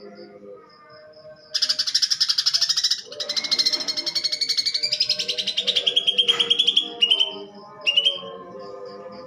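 Greater green leafbird (cucak ijo) singing a loud, very fast harsh chattering trill in its rough-voiced song of mimicked fighting sparrows; the trill runs for about five seconds, sliding down in pitch near its end, with a short burst of the same a second later.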